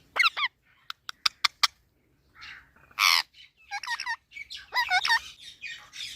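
Indian ringneck parrot calling: short warbling calls and a loud harsh squawk about three seconds in. A quick run of five sharp clicks comes about a second in.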